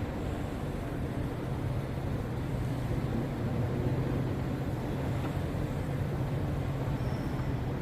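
Steady low rumble of a vehicle in motion, an even drone with no breaks.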